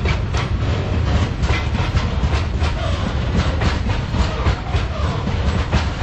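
Loaded freight hopper wagons of a passing freight train rolling by close at hand: a steady, heavy low rumble with the wheels clacking irregularly over the rail joints.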